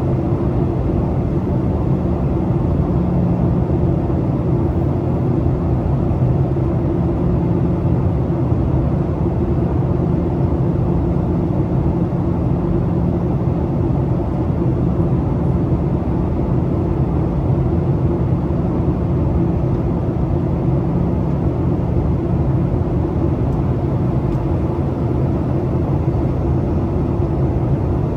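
Boeing 737 cabin noise in flight: a steady rumble of jet engines and airflow with a low, even hum, unchanging throughout.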